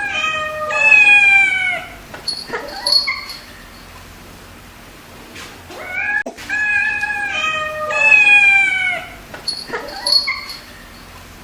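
Cat meowing: a long, loud meow falling in pitch, then a few shorter meows, a pause, and the same run of meows again about six seconds in.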